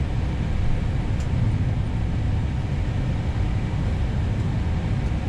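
Steady low rumble inside an Airbus A320neo cockpit as the airliner taxis after landing, with the engines at idle.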